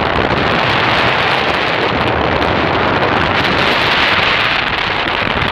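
Wind buffeting the microphone: a loud, steady rushing noise that cuts off abruptly at the end.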